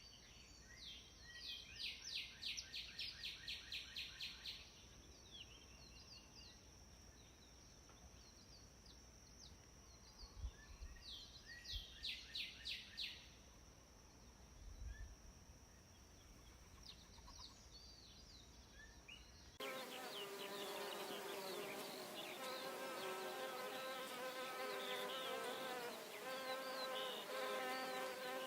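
Outdoor insect sounds: a steady high-pitched drone with two runs of fast, repeated chirps. About two-thirds of the way through, it cuts abruptly to a louder, dense buzzing of insects.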